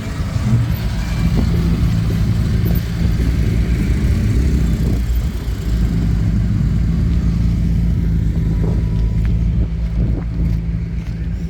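A car engine running, a steady low drone.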